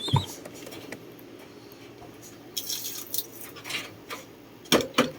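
Scattered knocks and rustles from a pigeon squab and its nest box being handled, the loudest a couple of sharp knocks near the end, with a brief high chirp at the very start.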